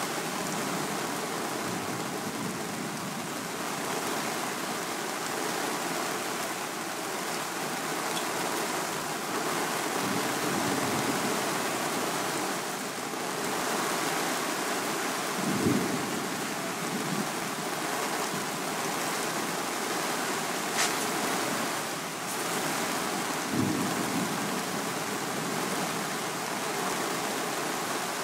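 Heavy rain falling steadily in a thunderstorm, a constant hiss. A few short low thumps stand out, the strongest about halfway through and another later on.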